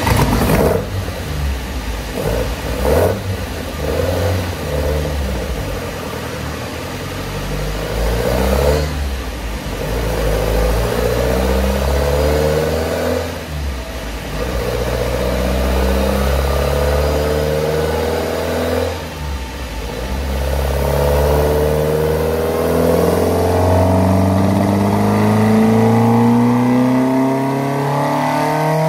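Volvo B18 four-cylinder engine on twin Weber carburettors, run hard on a rolling road. The revs climb and drop several times, with a brief sharp burst at each change, then rise steadily in one long pull over the last third.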